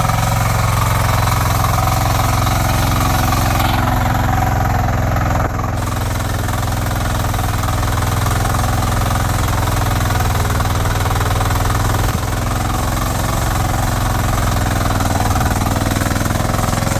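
VST FT80 power weeder's 8 HP diesel engine running steadily under load while its rotary tines till the soil.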